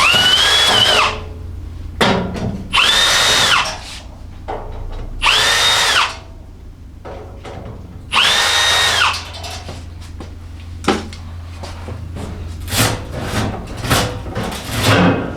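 Cordless drill-driver running in four short bursts of about a second each, a steady high whine, as it backs out the screws holding the top of a cast-iron stove. From about two-thirds of the way in, a quick string of knocks and clatter follows as the loosened top parts are handled.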